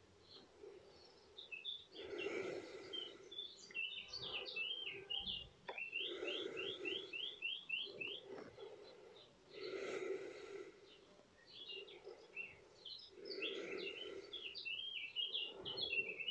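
Songbirds chirping and twittering, with a quick run of about eight evenly spaced notes near the middle. Soft whooshes recur every three to four seconds underneath.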